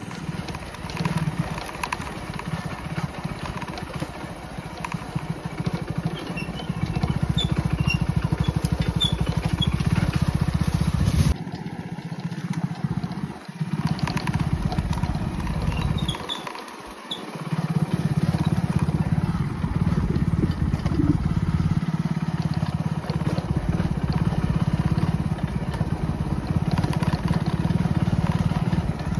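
Motorcycle engine running steadily on the move, easing off twice in the middle of the stretch before picking up again. A few faint bird chirps are heard over it.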